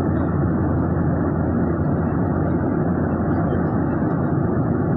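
Steady engine and air noise of an airliner in flight, heard inside the passenger cabin: an even, unbroken rush with a strong low hum.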